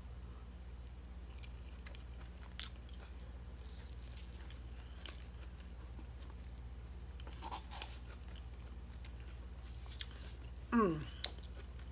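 A person chewing a mouthful of cheeseburger pie, with faint mouth and fork clicks, over a steady low hum. Near the end comes a short vocal sound.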